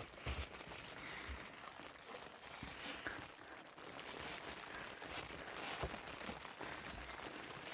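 Irregular crunching and rustling over a steady hiss.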